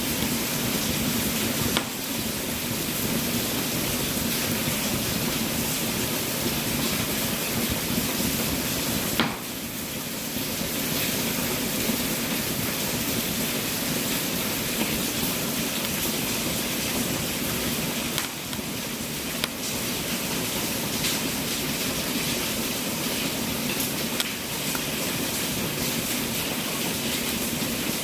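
Wood fire burning in a fireplace: a steady hiss with a few scattered sharp crackles and pops.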